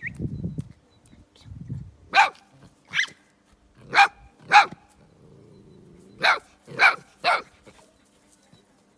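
Small dogs barking: seven short, high-pitched barks, coming in twos and threes.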